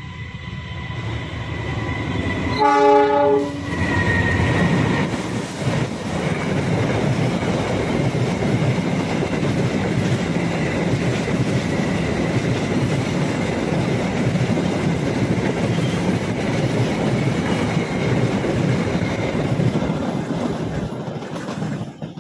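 Passenger train approaching and passing at speed: a short locomotive horn blast about three seconds in, then the steady rumble and clatter of wheels on rail as the carriages go by, dropping away abruptly near the end. A steady high ringing runs under the first few seconds.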